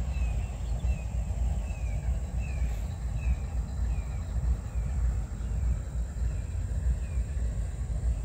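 A bird calling a steady series of short falling notes, about two a second, which die away near the end, over a constant low rumble.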